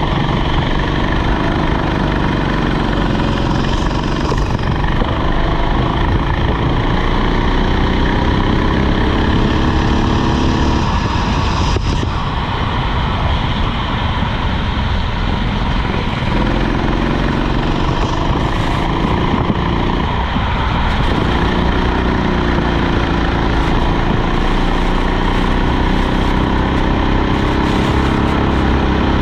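Rental kart engine running under load, its pitch climbing slowly along the straights and falling away three times as the kart slows for corners.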